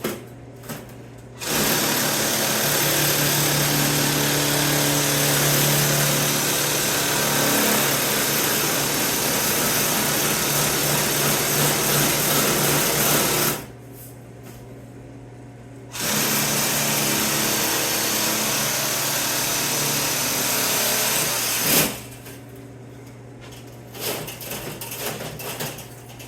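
Electric cutting tool running through sheet steel in two long passes, one of about twelve seconds and one of about six, with a pause between. A sharp click ends the second pass, and a little clatter of metal follows.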